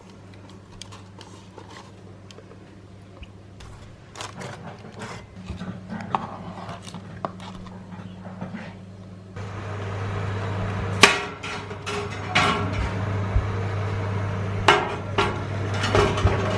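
Baking pans and utensils knocking and clinking against each other and the bench, with several sharper knocks in the second half, over a steady low hum.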